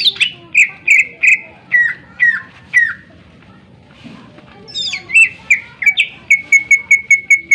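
Cucak ijo (green leafbird) singing loud, sharp whistled notes: a run of about eight notes, a short pause, then a fast, even series of short clipped notes at about three or four a second.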